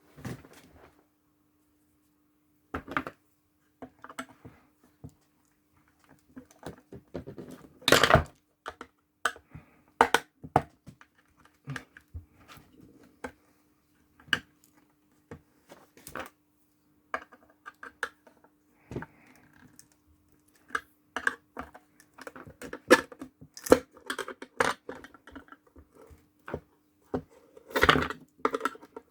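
Irregular clicks, knocks and scrapes of hand tools and parts being handled on an engine ECU's casing, with louder knocks about eight seconds in and near the end. A faint steady hum runs underneath.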